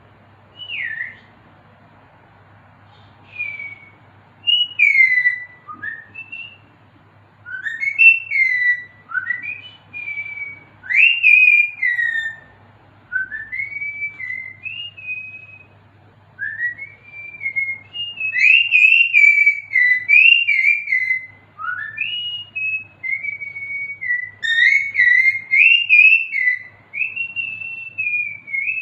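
Pet parrot whistling: a long run of short, clear whistled notes that slide up and down in pitch, many dropping at the end, coming thicker and louder in the second half.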